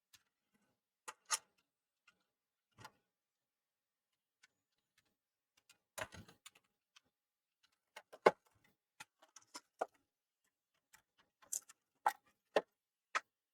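Scattered sharp clicks and taps, a dozen or so at irregular intervals with quiet between, from small plastic and metal parts of a PS4 Slim console being handled and fitted during reassembly. The taps come more often in the second half, the loudest about eight seconds in.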